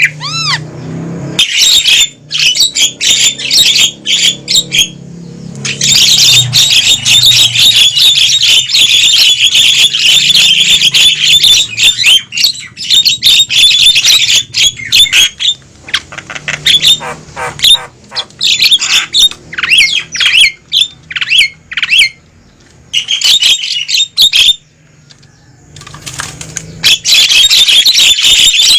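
Javan myna (jalak kebo) calling noisily: loud, harsh squawks and chatter in long dense bursts broken by a few short pauses.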